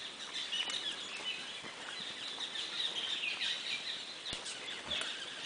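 Many small birds chirping, their short calls overlapping in a steady chatter.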